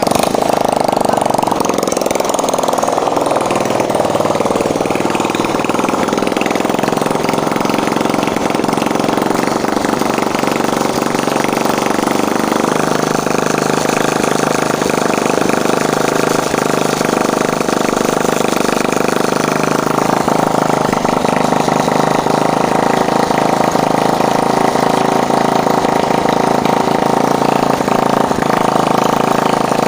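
Old Honda 150 cc petrol engine running on its first start after a rebuild; its speed wavers over the first few seconds, then it runs steadily.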